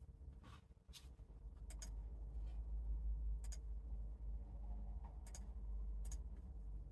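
Quiet desk-work sounds: a handful of light, isolated clicks and taps a second or more apart over a low rumble that swells about two seconds in, with a faint steady hum underneath.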